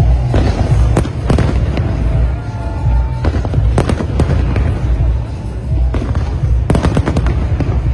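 Large fireworks display: a continuous deep rumble of bursting shells, broken by many sharp bangs and crackles, with a dense cluster of reports near the end.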